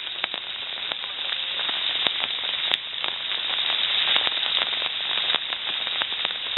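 Rain falling in the rainforest: a steady hiss with many sharp, irregular drop strikes close by.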